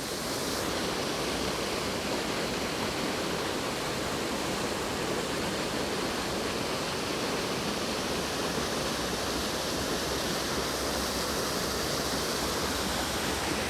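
Steady rush of water from Hull Creek's waterfalls.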